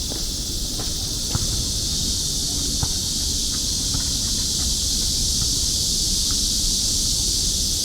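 Cicadas singing in chorus, a steady high shrill hiss that swells slightly after the first couple of seconds.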